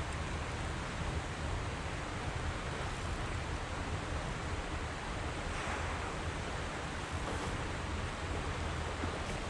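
Steady rushing of river water, with some wind on the microphone.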